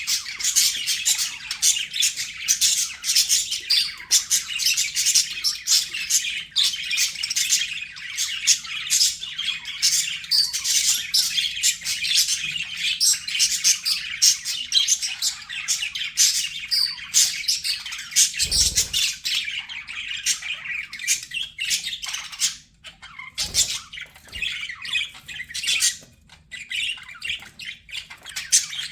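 A flock of budgerigars chattering: rapid overlapping chirps, warbles and squawks, with a low thump about two-thirds of the way through and short lulls near the end.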